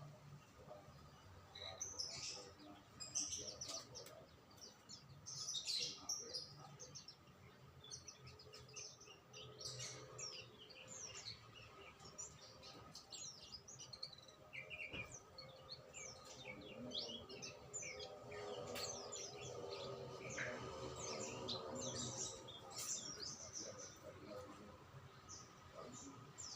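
Small songbirds chirping and twittering in quick, high, overlapping notes, with louder bursts about two and six seconds in.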